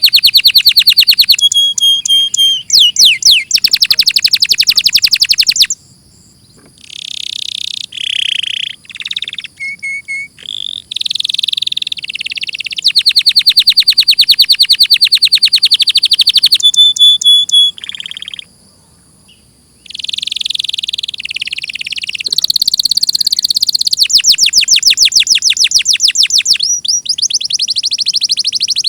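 Domestic canary singing: a long song of fast trills of rapidly repeated high notes, run together with shorter whistled phrases. The song breaks off briefly about six seconds in and again around nineteen seconds.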